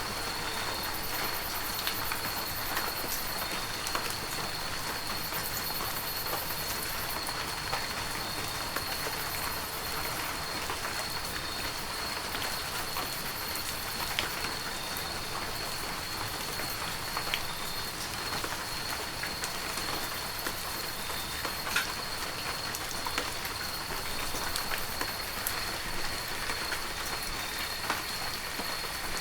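Heavy rain falling steadily, an even hiss with scattered sharper drop impacts.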